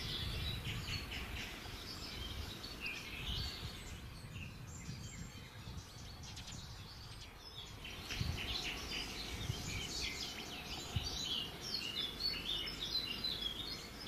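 Small birds chirping in quick, short high notes, thinning out for a few seconds midway and then busier again, over a steady low outdoor rumble.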